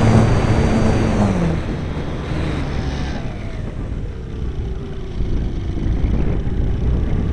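RC model airplane's motor whining under heavy wind rush on the microphone; the motor's pitch drops about a second in, and a low tone slides slowly down over the following seconds as the throttle is eased back.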